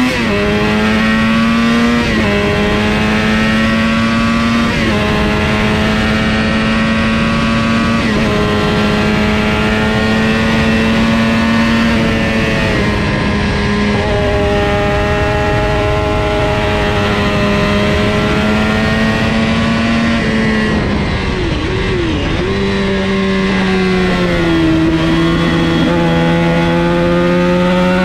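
400 cc supersport racing motorcycle engine running hard at high revs, heard from on board. The pitch holds high with a few short steps, dips and wavers for a couple of seconds about two-thirds of the way in, then runs on at a lower pitch.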